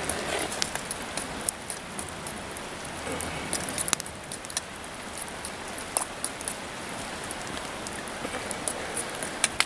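Rain pattering steadily, with scattered sharp ticks of drops striking close by.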